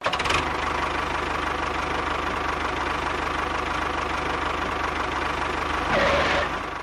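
A small motor running steadily with a rapid, even chugging pulse. It grows briefly louder near the end.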